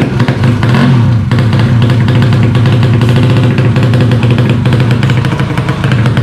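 130cc horizontal-cylinder ('sleep engine') racing motorcycle engine running loud and steady, with a brief rise and fall in pitch about a second in.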